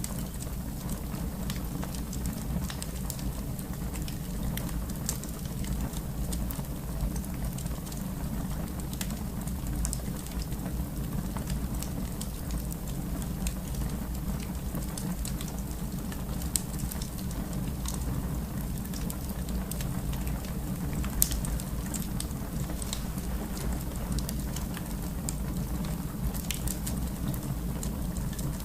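Wood fire burning in a fireplace: a steady low rumble with frequent small crackles and pops. A sharper pop comes a little past the middle, and another about five seconds later.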